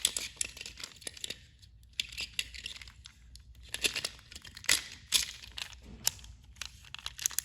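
Irregular plastic clicks, taps and light rattling from handling a small battery-powered toy train engine, in scattered clusters with short quiet gaps between.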